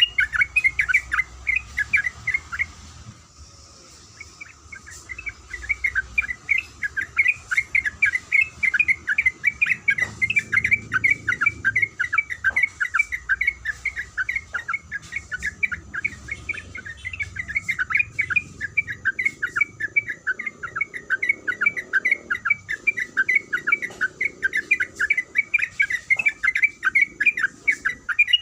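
Yellow-vented bulbul (trucuk) singing a long, rapid run of repeated 'kuik kuik' notes, broken by a short pause about three seconds in.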